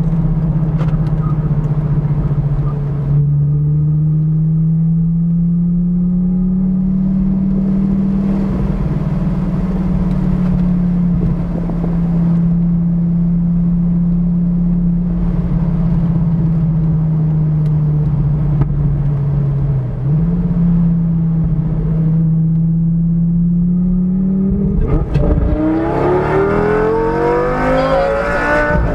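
Lamborghini Gallardo's V10 engine heard from inside the cabin, holding a steady note at cruising revs with a brief dip partway through. Near the end it revs up hard under acceleration, the pitch climbing steeply.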